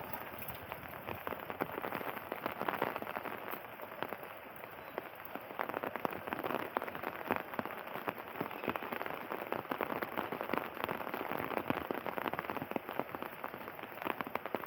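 Steady rain: a dense patter of many individual raindrops striking close by.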